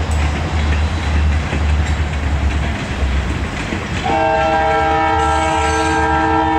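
A slow freight train's low rumble, then about four seconds in a diesel locomotive's multi-chime air horn sounds one long, steady chord for about two and a half seconds.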